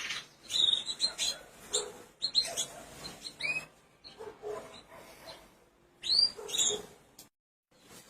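Small pet birds chirping: short, high calls, some sliding up or down in pitch, repeated at irregular intervals. The sound cuts out completely for a moment near the end.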